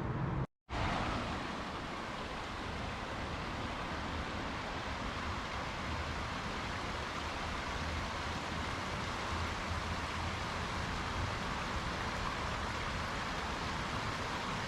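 Creek water flowing steadily, a constant rushing; it cuts out for a moment about half a second in.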